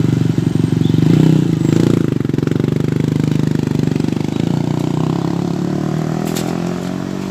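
A road vehicle's engine running close by, with a steady low tone that slowly fades away.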